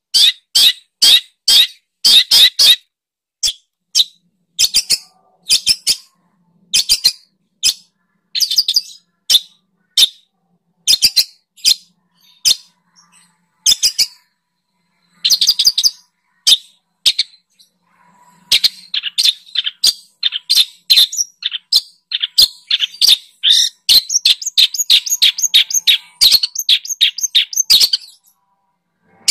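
Recorded songbird chirping, played as song-tutoring material (masteran) for a long-tailed shrike: sharp, high-pitched notes repeated about two to three times a second, turning into faster, denser runs of notes in the second half.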